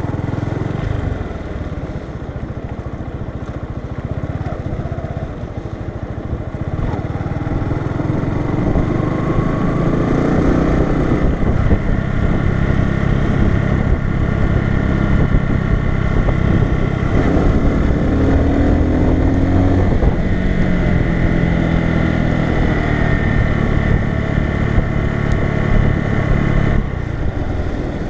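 Bajaj Boxer BM 150's single-cylinder four-stroke engine running under way, getting louder about a quarter of the way in as the bike speeds up. It holds a steady note, then eases off shortly before the end.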